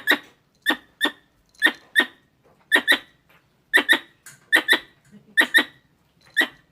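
Squirrel calls: sharp, squeaky chirps, mostly in quick pairs, repeating about once a second. These are the calls used to lure squirrels.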